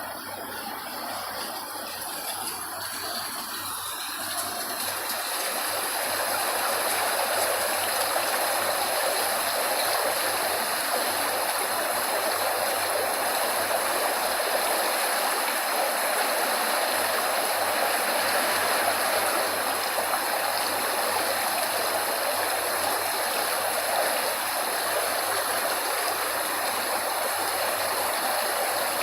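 Steady rushing of a flowing stream, rising in loudness over the first few seconds and then holding even.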